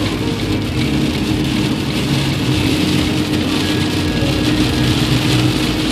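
Heavy rain on a moving car and tyres hissing through water on the road, heard from inside the cabin over a steady engine hum.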